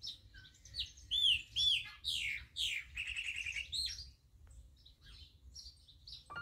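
Birds singing and chirping, several overlapping whistled calls with a rapid trill about three seconds in, thinning out near the end.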